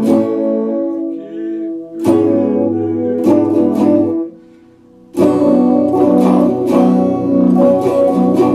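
Epiphone Les Paul Special II electric guitar strumming chords, with a short quiet gap about four and a half seconds in before steadier, fuller strumming resumes.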